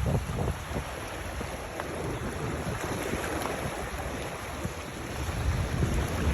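Wind buffeting the microphone over a steady rushing hiss; the low gusts ease in the middle and pick up again near the end.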